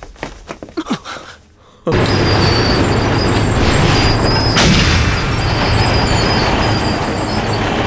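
A few faint, brief sounds, then about two seconds in a sudden, loud, steady rumble of heavy construction machinery running, with a low hum under it.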